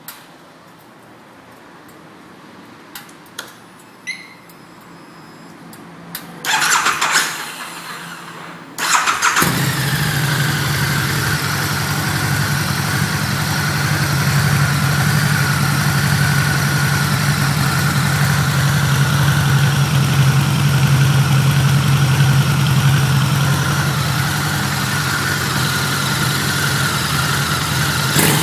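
Harley-Davidson Night Rod with its stock exhaust being started: a few small clicks, the starter cranking in two short bursts, then the liquid-cooled V-twin catches about nine seconds in and idles steadily.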